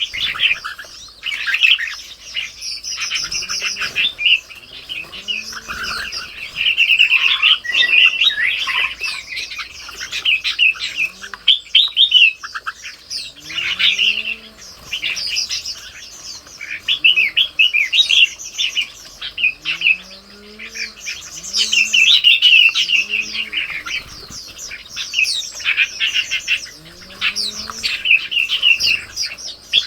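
Red-whiskered bulbuls chirping busily, with many short, overlapping chirps and calls, and low arching calls sounding now and then underneath.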